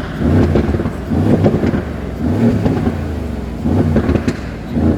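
Mercedes-AMG GLC63 S twin-turbo V8 revved in short repeated blips, about one a second, with exhaust crackles and pops as the revs drop, most clearly near the end.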